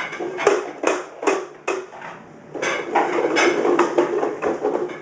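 Hard plastic clattering and knocking from a toddler's ride-on toy fire truck being pushed about. There are four evenly spaced knocks in the first two seconds, then a busier rattle.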